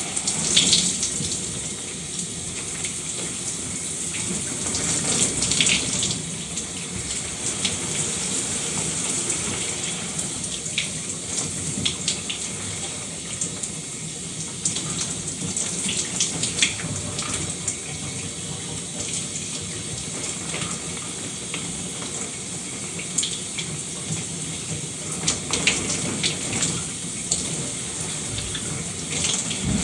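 Shower running steadily, water spraying and splashing with frequent small irregular splashes.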